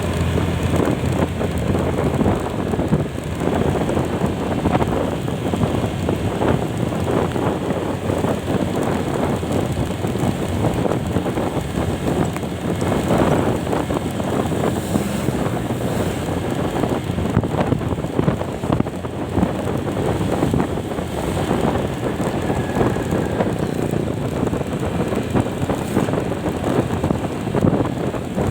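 Wind buffeting the microphone of a moving vehicle on the road: a loud, steady, gusty rush that covers any engine sound.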